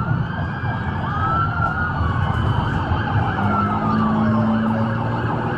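Police car siren wailing, its pitch slowly rising and falling, over a steady low rumble of engine and road noise.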